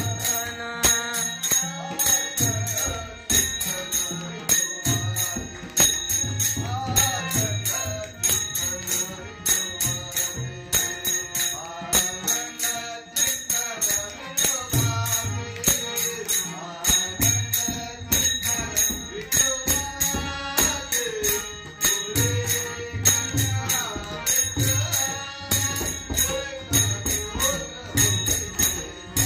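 A solo voice singing a Marathi devotional abhang, accompanied by small hand cymbals keeping an even beat and a low drum.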